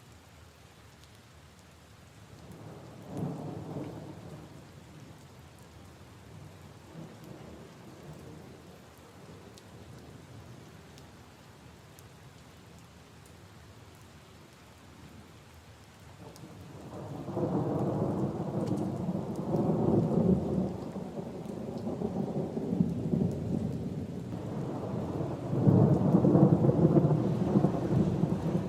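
Steady rain falling with scattered drop ticks, and rolling thunder: a short low rumble about three seconds in, then a long, louder rumble that builds from just past halfway and peaks near the end.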